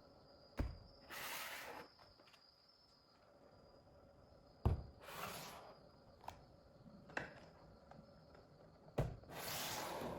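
Three sharp knocks a few seconds apart, each followed by about a second of rustling, typical of a product box and its packaging being set down and handled.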